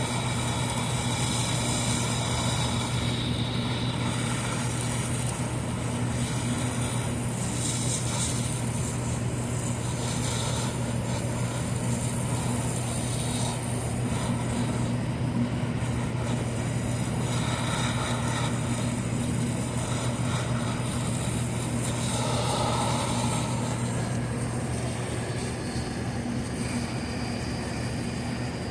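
A steady mechanical drone with a constant low hum, like an electric motor or fan running without change.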